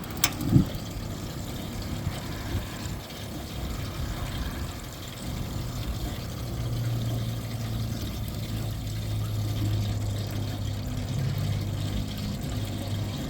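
Water running steadily through a portable gas instant hot water heater, with a sharp click and a thump about half a second in and a steady low hum from about five seconds on.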